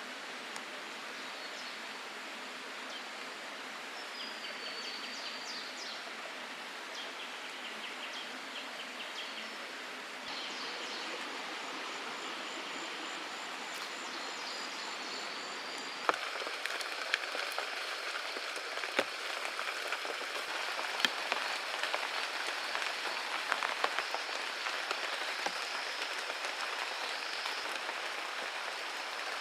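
Steady rush of a forest stream, with short bird calls now and then. From about halfway through, scattered sharp clicks and taps join the water sound.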